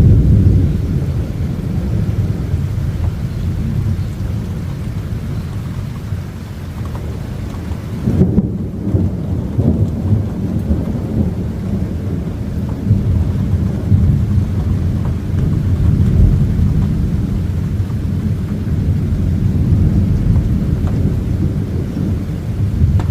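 Thunder rumbling continuously through a close thunderstorm, loudest at the start.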